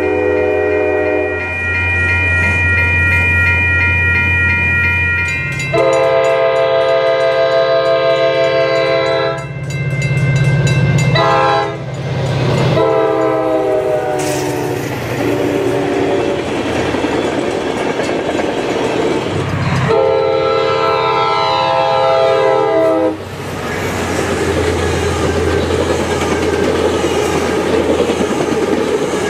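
Altamont Commuter Express diesel commuter train passing, its multi-note air horn sounding several long blasts over the low drone of the locomotive and the rumble and clatter of wheels on the rails.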